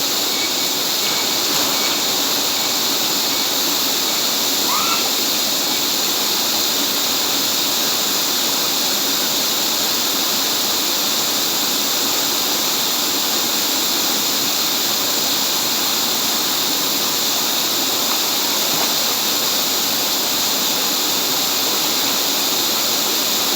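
Steady, unbroken rush of a waterfall. A short, faint rising chirp sounds about five seconds in.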